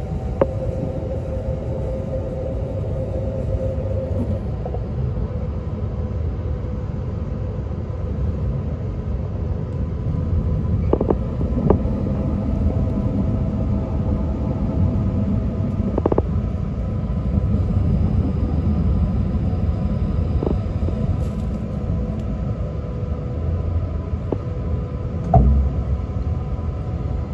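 E6-series Akita Shinkansen train running, heard inside the passenger car: a steady low rumble of wheels on rail with a faint steady hum. A handful of sharp clicks and knocks come through it, the loudest a thump near the end.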